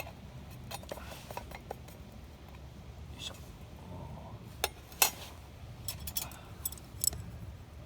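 Scattered clinks and taps of utensils against metal cookware and dishes, with a few sharper knocks, the loudest about five seconds in.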